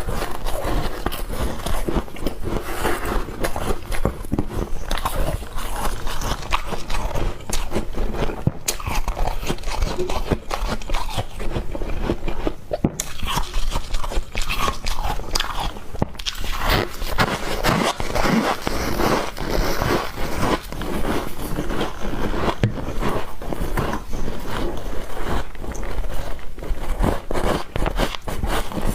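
Squeaky ice being bitten and chewed, with dense, continuous crunching made of many sharp cracks.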